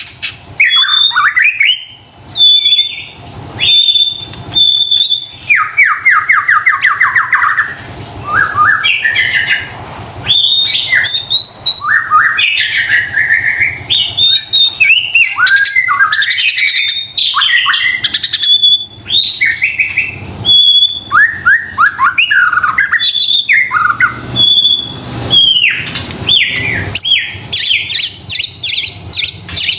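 White-rumped shama singing on and on in loud, varied phrases. The song mixes clear high whistled notes, a fast run of rattling notes about a quarter of the way in, and quick rising and falling slurs.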